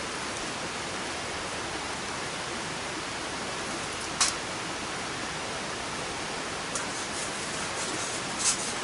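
Steady, even rushing hiss, with a short sharp click about four seconds in and another near the end.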